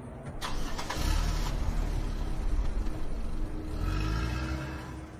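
A motor vehicle engine running loudly with a heavy low rumble, coming in suddenly about half a second in.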